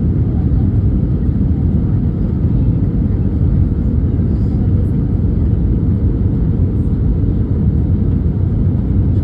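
Airliner cabin noise heard from inside the passenger cabin during landing: a steady low rumble of engines and airflow with a faint steady hum.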